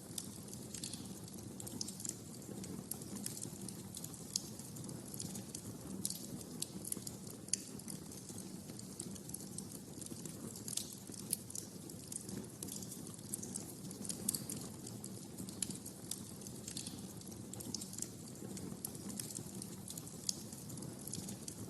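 Wood fire in a fireplace crackling: frequent irregular sharp pops and snaps over a steady low rumble of burning.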